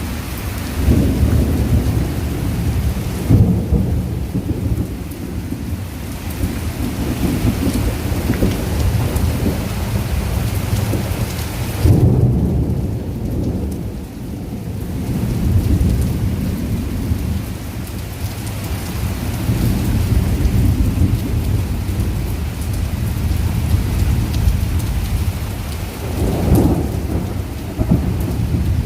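Heavy rain falling with rolling thunder: a steady rush of rain over a deep low rumble that swells several times, loudest about three seconds in and again about twelve seconds in, with another roll near the end.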